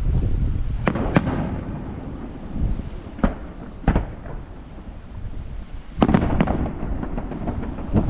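Fireworks bursting: a run of sharp bangs over a steady low rumble, the strongest bang about six seconds in.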